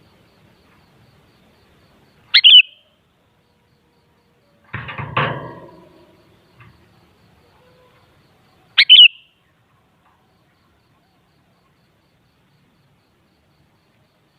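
Sooty-headed bulbul (kutilang) giving two short, loud calls about six seconds apart, each a quick double note. Between them, a dull knock with a brief rustle.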